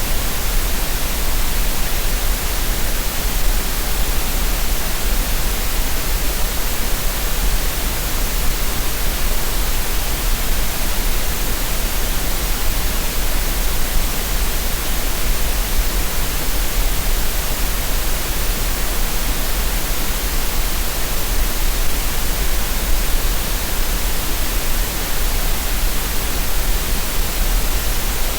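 Green noise: a steady synthetic hiss spread across the whole range from a low rumble to a high hiss, holding unchanged throughout.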